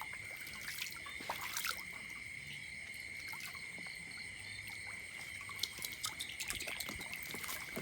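Insects chirping in a steady high-pitched drone, with scattered faint clicks and trickling water.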